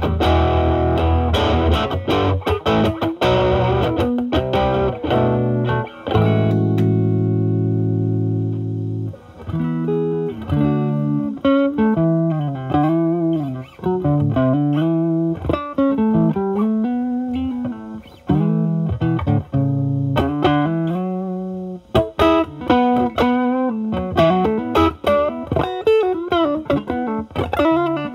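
Stratocaster through a Ceriatone Centura Klon-clone overdrive pedal and a Marshall Valvestate drive channel, with the pedal's gain at zero. It plays driven chords, then lets one chord ring for a few seconds. From about ten seconds in it turns to a cleaner, lower-gain tone, playing bluesy single-note lines with string bends.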